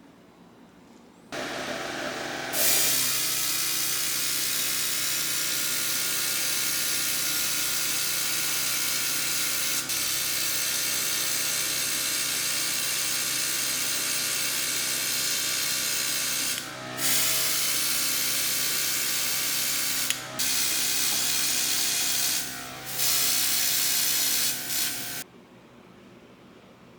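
A power tool running steadily with a strong hiss, switched on about a second in, briefly released three times in the second half, and switched off abruptly near the end.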